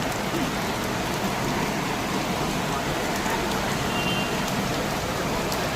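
Heavy rain falling, a steady, even hiss of rain on surfaces.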